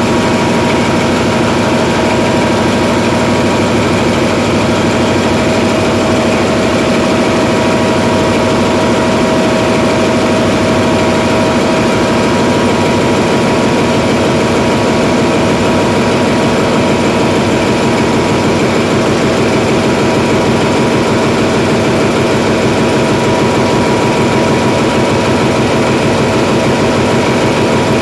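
Hyundai Himsen medium-speed diesel generator engine running loud and steady, holding a constant speed with no rise or fall in pitch.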